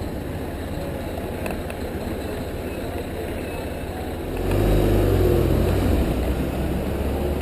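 BMW R1150RT's boxer-twin engine running as the motorcycle rides slowly, with wind noise on the microphone. It gets louder about four seconds in, as if accelerating.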